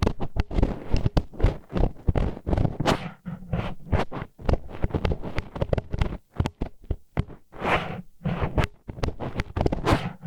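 Disposable wooden chopsticks scraping and grinding against the ear wall in ASMR ear-cleaning: a run of irregular rubbing strokes with a few brief pauses.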